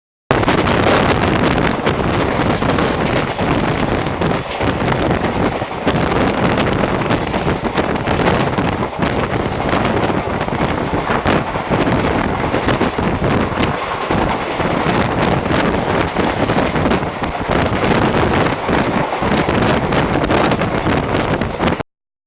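Rushing wind on the microphone over the running noise of a moving Indian Railways passenger coach, from a train at speed. It cuts off suddenly near the end.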